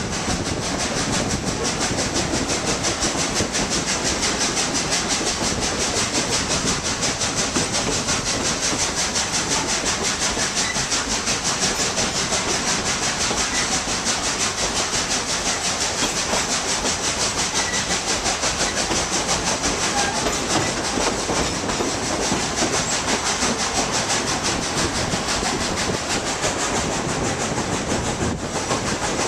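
Narrow-gauge steam train running along the line, heard from a riding passenger car: a steady rumble with a rapid, regular clatter of wheels on the rails.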